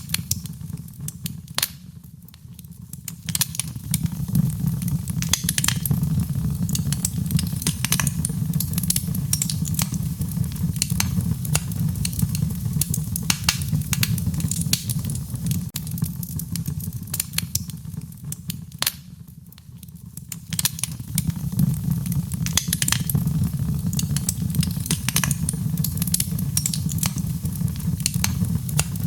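Wood fire burning: a steady low rumble of flames with frequent sharp crackles and pops from the burning logs. It briefly quietens twice, a couple of seconds in and again about two-thirds of the way through.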